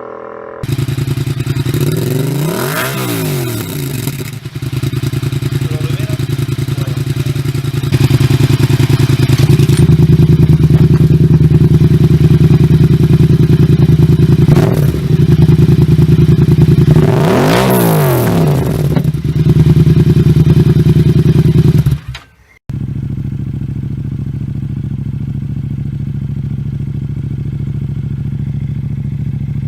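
Yamaha MT-07's parallel-twin engine through an aftermarket exhaust, idling and blipped up to a quick rev and back down twice, with a shorter blip in between. After a sudden break about two-thirds of the way through, it idles steadily.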